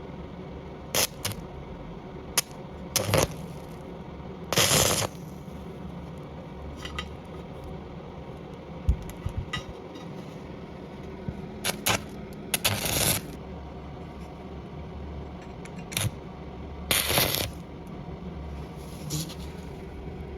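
Scrap metal parts clinking and scraping against each other, about a dozen irregular strikes, some drawn out into short scrapes, over a steady low machine hum.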